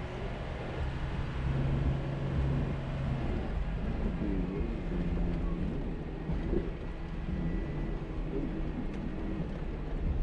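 Jeep engine running at low speed over a steady low rumble, its pitch rising and falling a few times about halfway through.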